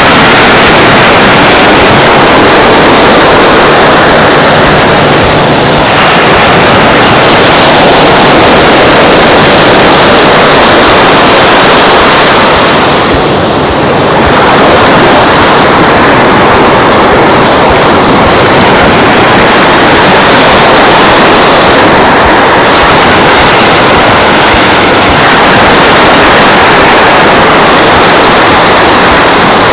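Loud, steady rushing noise of wind and surf on a beach, easing briefly about halfway through.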